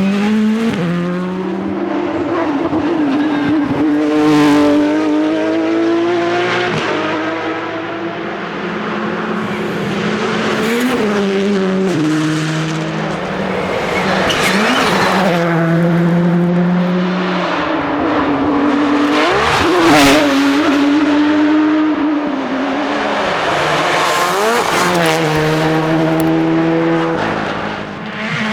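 Rally car engines at full throttle on a special stage, revving up through the gears with sharp drops in pitch at each shift and on braking, again and again.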